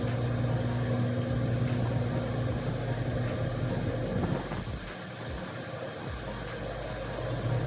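Car engine running with a steady low hum, easing off a little past the middle and building again near the end.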